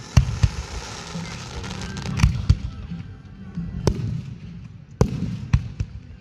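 Fireworks shells bursting overhead: about eight sharp bangs at irregular intervals, some in quick pairs, over a steady low rumble of the show.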